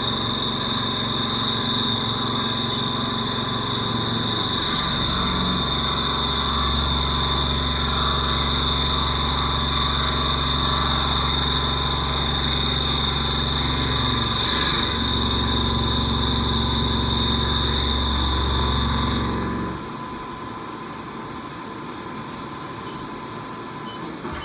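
Haas Mini Mill 2 CNC milling 6Al-4V titanium with a single-flute Iscar high-feed end mill: steady cutting and spindle noise with a high whine, changing briefly a couple of times. About 19 to 20 seconds in, the whine and hum stop and the sound drops to a quieter machine hum as the cut ends.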